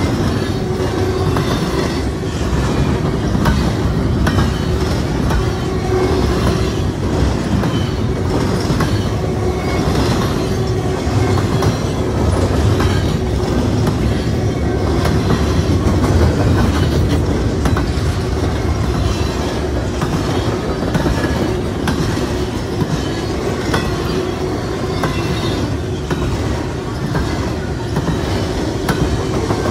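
Double-stack intermodal container cars of a freight train rolling steadily past at close range: a continuous heavy rumble with rapid, uneven wheel clicks on the rails.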